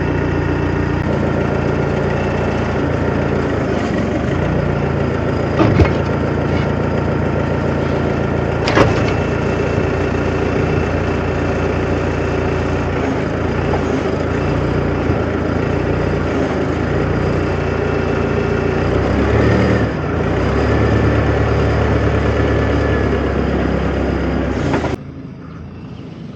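A vehicle engine running steadily, its note picking up about 20 seconds in, with two sharp knocks along the way; the sound drops away suddenly near the end.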